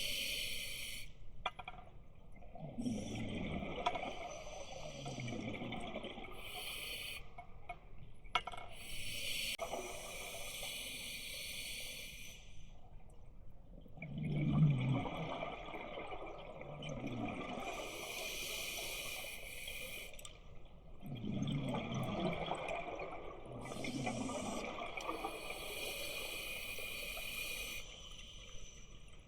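Scuba diver breathing through a regulator underwater: slow, repeated cycles of a hissing inhalation followed by a burst of gurgling exhaled bubbles, about four breaths in all.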